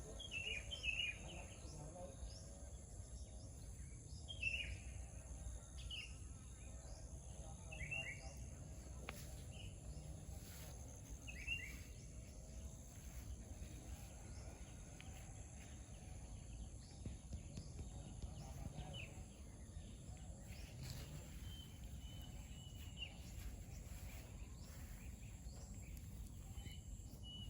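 Songbirds calling: short downward chirps repeated every couple of seconds, then a higher held whistle in the last third. Underneath are a steady high hum and a low rumble.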